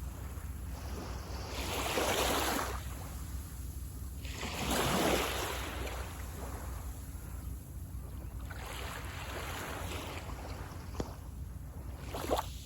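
Small sea waves washing onto the beach in surges, two louder washes about two and five seconds in and a softer one later, over a steady low rumble. A short sharp knock sounds near the end.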